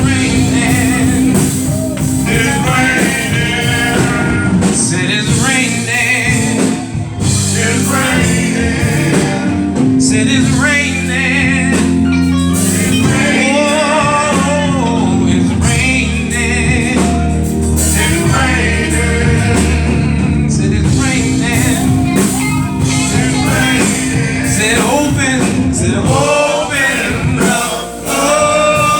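Live gospel praise-and-worship music: singing over band accompaniment with a steady bass line and a regular beat.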